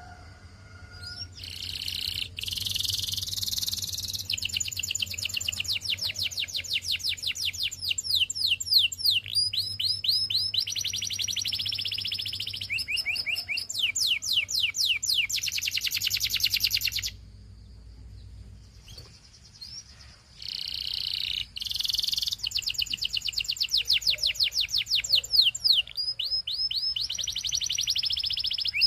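Belgian canary singing: long rolling trills of fast repeated downward-sweeping notes, changing from one tour to the next, with a break of about three seconds past the middle before the song resumes.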